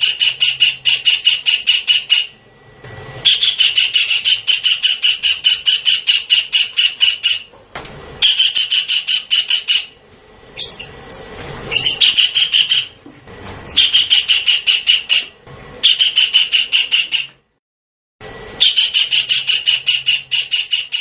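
Javan kingfisher calling in a recorded lure track: bursts of fast, evenly repeated high notes, each burst lasting a few seconds, separated by short pauses, with a brief full silence near the end.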